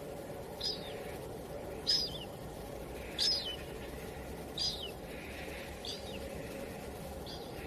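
A bird calling: six short, high chirps a little over a second apart, each dropping in pitch at its end, the second and third loudest. Underneath runs a steady low rush of wind.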